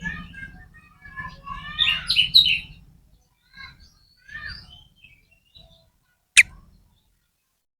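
Oriental magpie-robin (kacer) singing quick, harsh chirping phrases for about four and a half seconds. A single sharp click follows about six seconds in.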